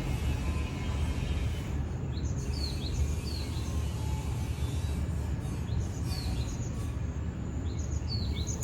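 Small birds chirping with short, high, falling notes that repeat in little groups from about two seconds in, over a steady low outdoor rumble.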